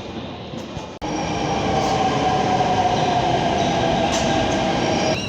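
Delhi Metro train running, heard from inside the carriage: a steady rumble of wheels on the track with an electric motor whine that slowly falls in pitch. The sound cuts off abruptly about a second in and comes back louder.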